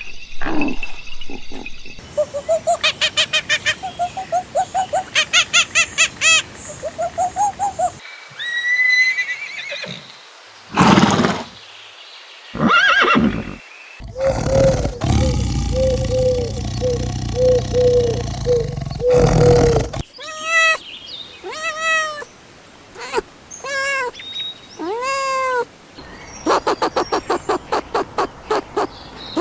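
A run of different animal calls cut one after another, each a few seconds long: fast pulsing calls, a row of short repeated calls, and several pitched calls that rise and fall, with abrupt cuts between them.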